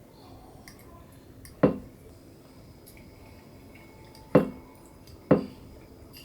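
Three sharp knocks over quiet room tone: one about a second and a half in, then two about a second apart near the end, each with a short ring.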